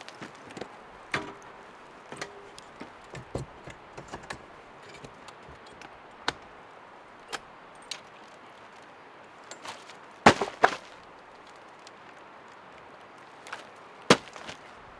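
Irregular light clicks and knocks, with a cluster of sharper knocks about ten seconds in and one more near the end.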